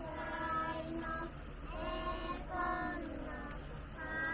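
Voices chanting a slow Japanese ofuna-uta (ritual boat song), drawing out long held notes one after another.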